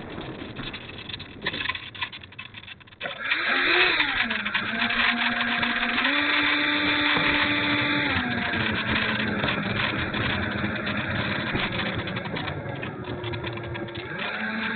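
Twin 70 mm electric ducted fans on an RC jet, heard from a camera on the airframe, with rushing air. After a brief quieter moment they come back sharply about three seconds in, then run with a whine whose pitch shifts in steps as the throttle changes.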